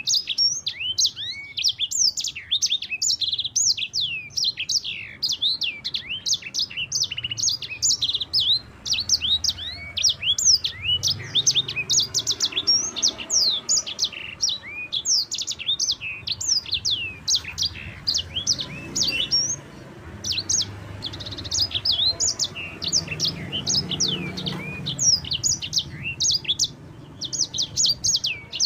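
A sanger songbird singing a fast, continuous rolling song of quick high chirps and falling whistles, with a few short lulls.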